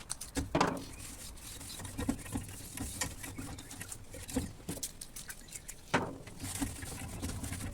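A cloth wiping and scrubbing a lawn mower clean: irregular rubbing and light scraping with small knocks, including a louder scrape about half a second in and another about six seconds in.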